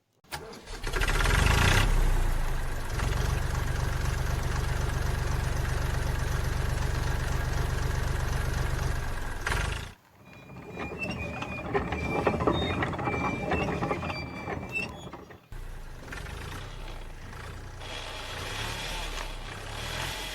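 Tractor engine sound effect running steadily for about ten seconds, then cutting off abruptly. A rattling mechanical clatter with a few short high tones follows, then a lower engine sound runs on.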